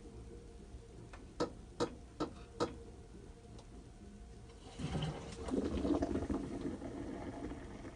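Washing machine working: four sharp, evenly spaced clicks, then a few seconds later a louder rush of water sloshing and gurgling in the machine.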